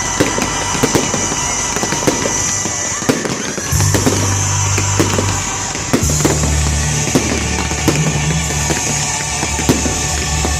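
Fireworks display: many sharp bangs and crackles of bursting shells, irregularly spaced, over loud music played for the show.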